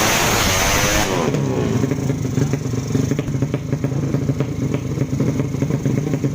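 A loud rush of noise for about the first second, then a motorcycle engine running steadily, with light clattering ticks over it.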